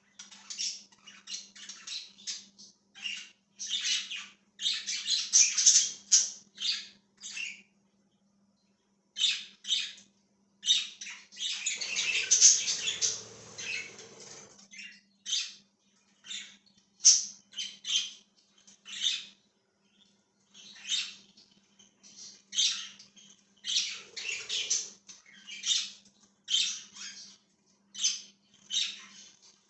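Budgerigars chirping and chattering in quick, high, short calls, with a denser stretch of chatter in the middle and brief lulls. A faint steady low hum sits underneath.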